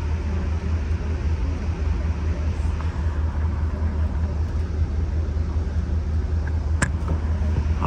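Steady low rumble inside an Amtrak Superliner lounge car as the train gets under way, with one sharp click about seven seconds in.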